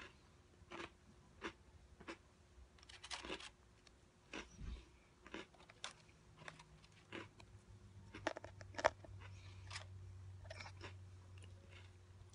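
Faint chewing of a crunchy cinnamon bun Oreo cookie: short, irregular crunches and mouth clicks, about one to two a second.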